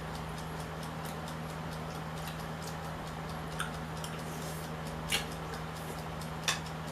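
Steady faint ticking like a clock over a low steady hum. Three sharper clicks fall about halfway through and twice near the end, the last the loudest.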